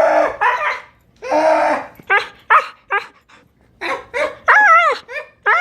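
A dog 'talking': a quick string of whining, yowling calls, each one bending up and down in pitch, with short pauses between them.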